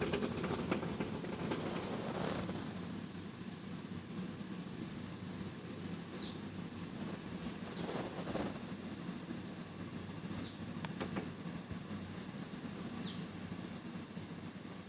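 A bird giving short, high, down-slurred chirps, four of them spread a few seconds apart, over a steady low background rumble. Faint clicks sound in the first couple of seconds.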